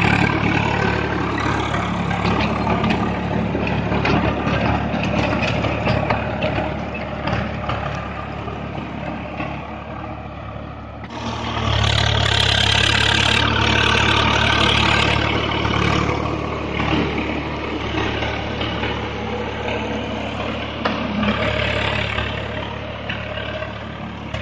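Swaraj 744 FE tractor's diesel engine running steadily. It grows louder about eleven seconds in, then eases off toward the end.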